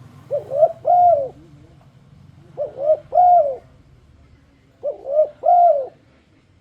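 Spotted dove (tekukur) cooing: three phrases, each two short coos followed by a longer, arching coo, repeated about every two seconds. It is the call used to lure other doves into calling.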